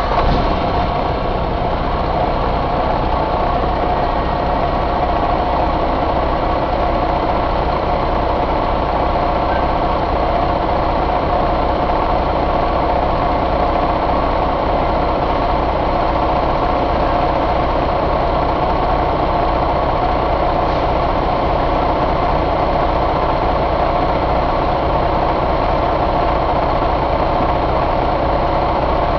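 2017 Detroit DD15 inline-six diesel engine idling steadily.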